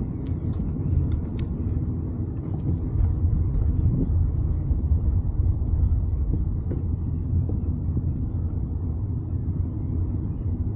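Wind buffeting the microphone in a steady low rumble while riding a bicycle, with a few faint clicks in the first second and a half.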